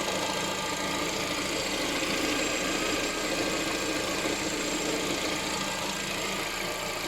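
Car engine idling steadily with the air conditioning switched on, a rattle running through it. The owner is tracing a knock and doubts that the air conditioning is its cause.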